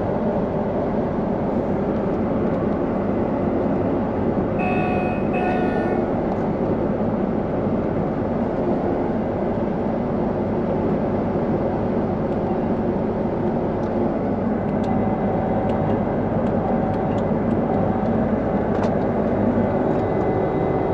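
Combine harvester engine and threshing rotor running steadily, heard from inside the cab. About five seconds in, an electronic cab alarm beeps twice.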